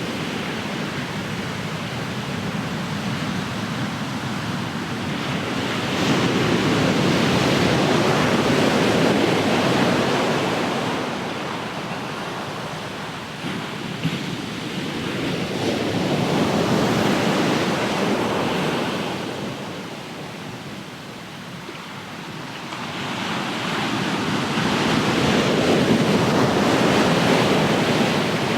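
Ocean waves breaking and washing up the shore, the surf swelling and ebbing three times, with some wind on the microphone.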